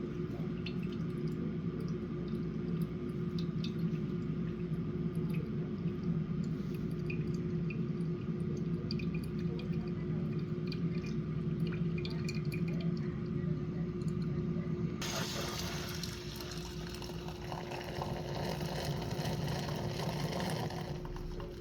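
Coffee machine running with a steady pump hum while liquid pours. About 15 seconds in, a hiss joins suddenly and runs until near the end.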